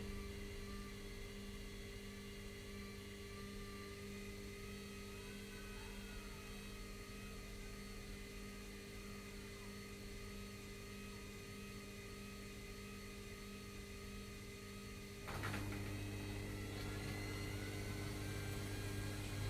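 Washing machines running a delicates cycle: a steady motor hum with a faint whine. About fifteen seconds in, a louder low rumble starts as a drum motor picks up.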